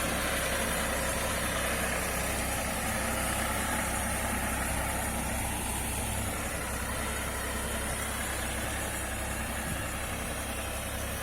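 Tractor engine running steadily at constant speed while it works a boom sprayer.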